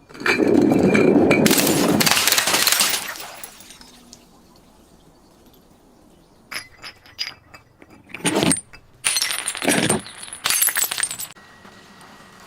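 Glass breaking: a loud crashing shatter lasting a couple of seconds, then, after a pause, a run of short crunching and clinking sounds.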